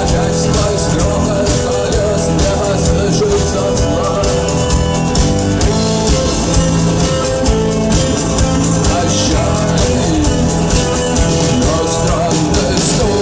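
A rock band playing live, loud and steady.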